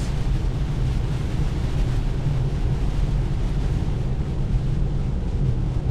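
Steady road and rain noise inside a car cabin at highway speed on a soaked road: a low rumble with an even hiss of rain and tyre spray.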